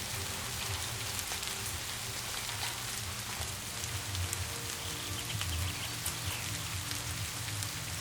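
Steady rain, with many individual drops ticking sharply close to the microphone over an even hiss and a low rumble. Faint soft music is held underneath in long steady tones.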